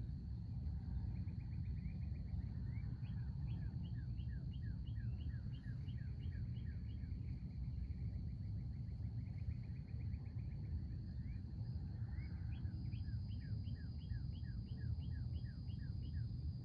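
Outdoor ambience with a steady low rumble, over which a wild songbird sings twice. Each phrase is a rapid series of short down-slurred notes, about three a second and lasting about three seconds, the first about three seconds in and the second about twelve seconds in. A faint steady high hum runs underneath.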